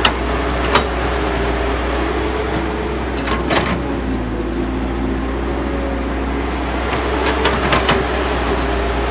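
Caterpillar excavator's diesel engine running steadily with a low hum, with sharp knocks from the machine about a second in, around three and a half seconds in, and a cluster near the end.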